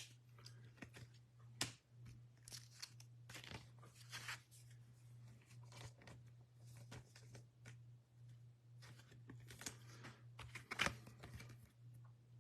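Faint rustling and small clicks of trading cards being slid into plastic sleeves and handled, over a steady low electrical hum.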